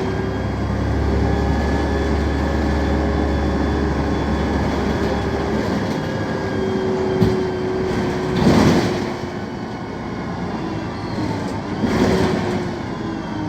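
BredaMenarini M 240 LU city bus running, its Mercedes OM 906 LA inline-six turbo diesel and Voith automatic gearbox giving a steady rumble with whining tones that shift in pitch. A sharp knock comes about 7 seconds in, and two short hissing bursts come about 8.5 and 12 seconds in.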